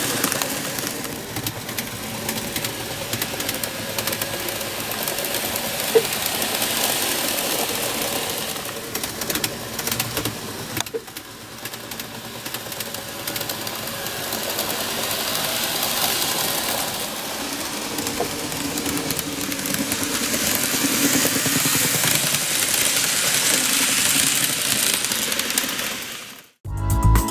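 N gauge model train running on its track, its powered car on a test run after maintenance: a small motor whirring with a fine rattle, swelling and fading in level as it travels. Near the end it cuts off.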